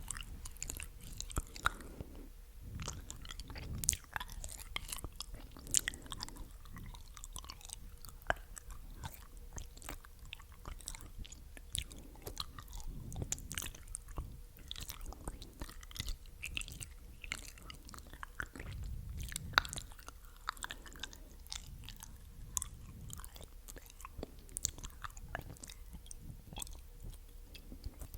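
Close-up ASMR mouth sounds: a steady stream of wet, sticky clicks and smacks of tongue and lips, irregular and close to the microphone.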